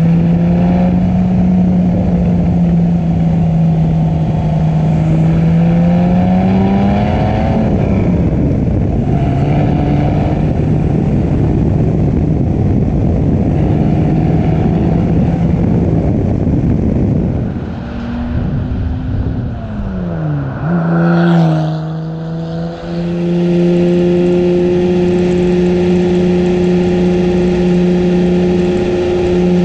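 Aston Martin DBR2 recreation's engine heard from the open cockpit under way, over a rush of wind and road noise. It holds a steady pitch, rises and drops back about a quarter of the way in, goes quieter with falling and rising pitch past the middle, then settles into a steady cruise.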